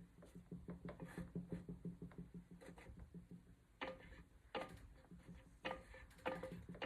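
Faint clicking and light metal-on-metal knocks as a part is worked into place on a Ford toploader four-speed transmission. The knocks are sharper and more spaced out in the second half.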